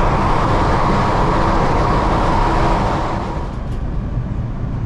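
Electric ETS train running along the track, heard from inside the carriage as a steady rumble with a loud hiss. The hiss eases off about three seconds in as the train slows into a station.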